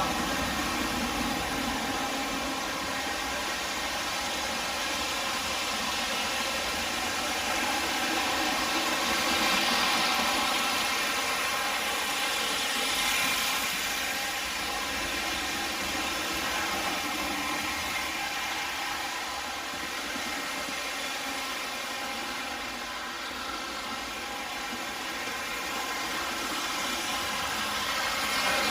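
O-scale MTH Premier three-rail diesel locomotives running on the track and slowing down, their Proto-Sound 3.0 diesel engine sounds playing steadily from the onboard speakers over the running noise of the wheels.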